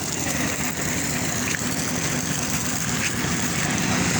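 Vehicle engine idling steadily, with a steady rushing hiss of running water over it.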